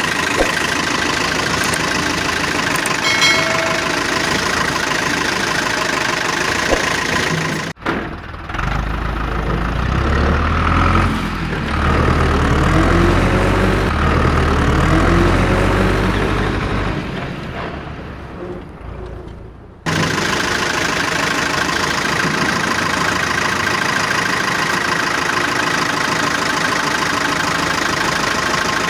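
Engine running steadily. About 8 seconds in it switches abruptly to a deeper engine revving up and down, which fades away before the first steady engine sound cuts back in near 20 seconds.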